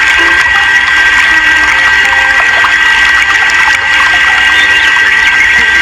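A small motor whining at a constant high pitch over a steady rush of water-like noise.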